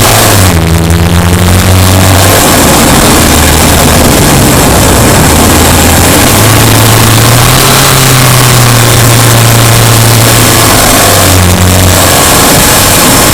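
Subaru Impreza Sport's flat-four boxer engine running loud while the car is driven, its note falling about half a second in, rising again midway and changing once more near the end as the throttle and gears change.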